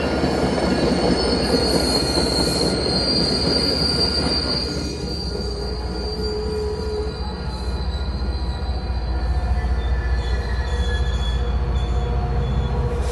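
MBTA commuter rail train rolling past, its steel wheels squealing in a high steady tone for the first few seconds over the rumble and rattle of the coaches. Over the second half a deep low rumble grows stronger as the diesel locomotive comes up.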